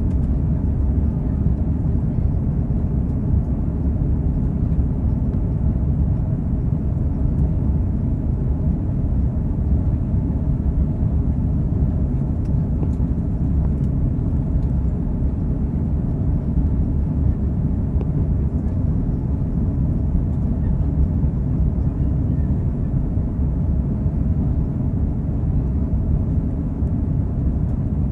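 Steady low rumble of an Airbus A330-300 with Rolls-Royce Trent 700 engines, heard inside the passenger cabin. The noise holds level throughout with no rise or fall.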